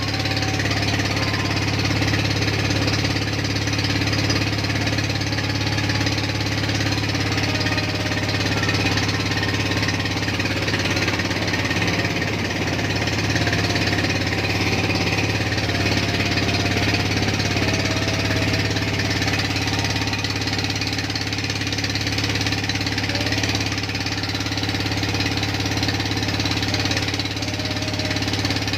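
A small boat's engine running steadily with a hard, knocking beat.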